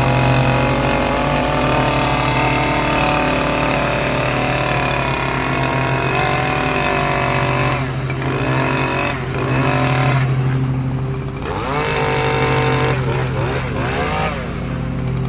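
Stihl KM94R KombiMotor two-stroke engine driving a hedge trimmer attachment, running steadily at high throttle. In the second half it is throttled down and back up several times in quick succession, with rising and falling revs.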